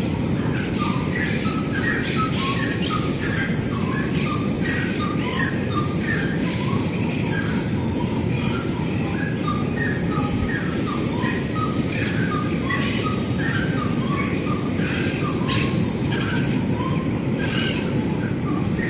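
Birds chirping in quick short notes, several a second, over a steady low rumble.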